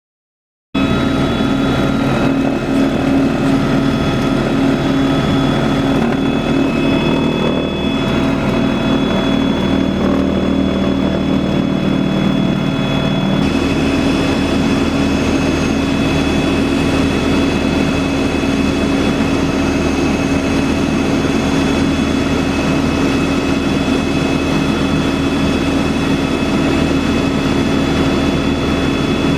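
Helicopter noise heard from inside the cabin in flight: a loud, steady turbine whine and rotor hum. It starts abruptly just under a second in, and the low tones shift about halfway through.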